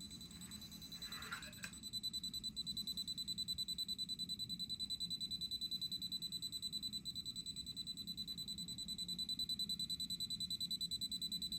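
AsTagFinder RFID tag-finder app beeping rapidly and evenly, several high beeps a second, as the reader picks up a UHF RFID tag it is tracking. The beeping grows louder about two seconds in.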